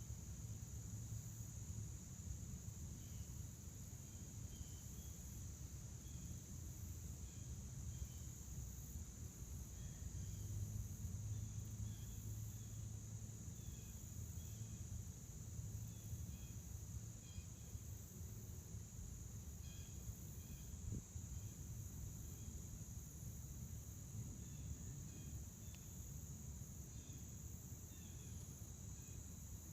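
Steady chorus of crickets, one continuous high-pitched trill, with scattered short chirps above a low background rumble.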